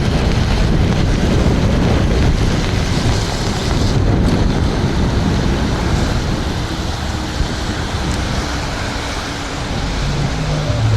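Wind rushing over a helmet-mounted microphone with tyre hiss and spray on a wet road, heard while riding an electric scooter in rain. A short low hum comes in near the end.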